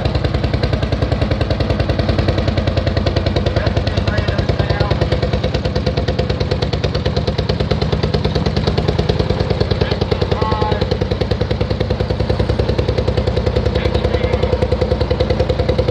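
Single-cylinder engine of a pulling tractor running steadily and loud, its exhaust beating in an even, rapid rhythm.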